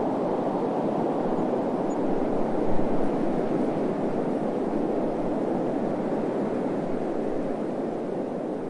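Steady rushing noise, like wind or white noise, deepest in tone and without any distinct events, easing off slightly near the end.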